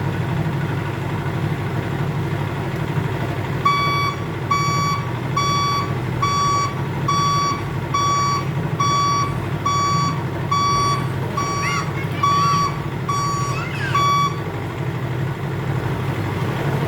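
Dump truck's reverse alarm beeping about a dozen times, a little over once a second, over the steady running of the truck's diesel engine. The truck is backing up. The beeping starts a few seconds in and stops a few seconds before the end, leaving only the engine.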